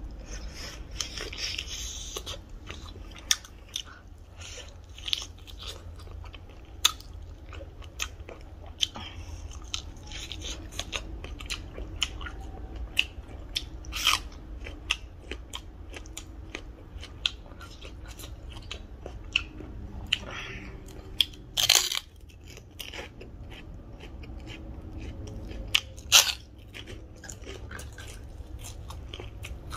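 Close-miked chewing and biting of rice and chicken curry eaten by hand, with frequent sharp crunches. One louder crunch about halfway through is a bite into a raw red onion.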